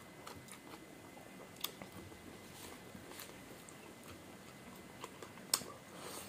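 Quiet eating by hand: chewing and mouth sounds with scattered soft clicks, and two sharper clicks, about a second and a half in and again near the end.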